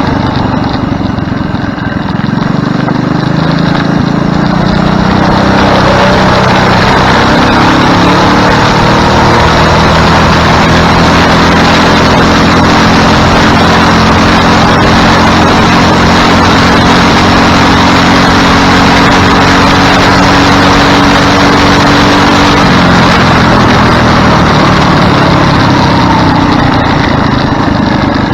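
Go-kart's small engine revving up over the first few seconds, running steady at high speed through most of the stretch, then winding down near the end.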